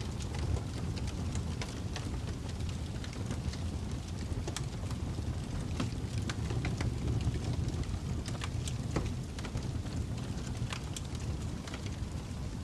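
Fire crackling: a steady low rumble with irregular sharp pops and snaps scattered throughout.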